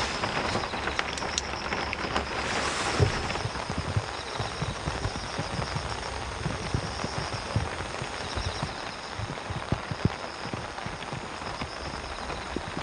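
Heavy rain falling steadily, with many big drops knocking irregularly on a hard surface.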